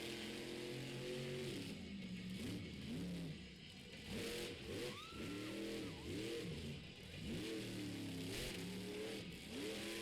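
Monster truck engine revving up and down repeatedly, its pitch swooping several times in quick succession as the throttle is blipped during a freestyle run.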